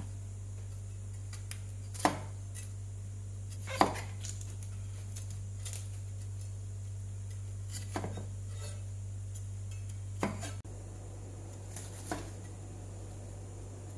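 Kitchen utensils and dishes knocking against a counter or cutting board: five separate sharp knocks and clinks a few seconds apart, over a steady low hum.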